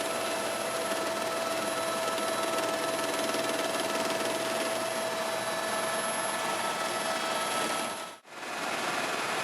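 Helicopter running: a steady turbine whine over an even rushing noise, with a brief dropout near the end.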